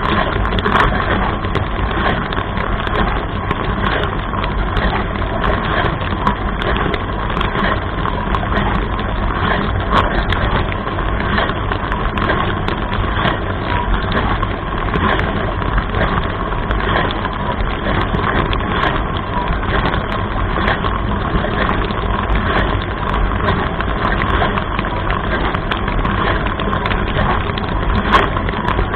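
Dishwasher running: water from the spray arms splashing steadily inside the tub over a steady low hum, with scattered brief ticks of water striking.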